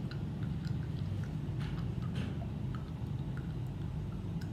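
Someone chewing a hard, sticky chocolate, with small irregular clicks and crunches.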